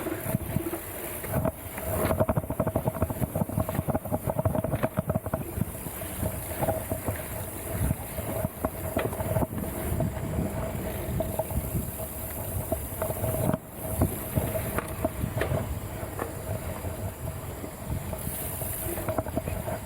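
Mountain bike rattling and clattering over a rough, technical dirt trail: a dense run of irregular knocks from the bike and tyres, with wind on the microphone and a steady high hum throughout.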